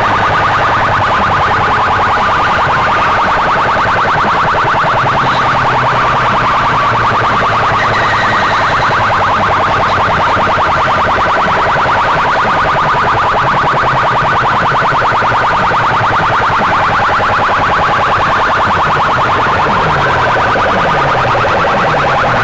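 Loudspeaker sound system blasting a distorted, siren-like electronic tone at full volume, with a fast pulsing throb and no let-up.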